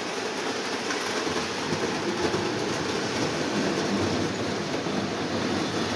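Lionel O27 model diesel locomotive running on its track pulling a string of cars: a steady running noise of the electric motor and metal wheels rolling on the rails.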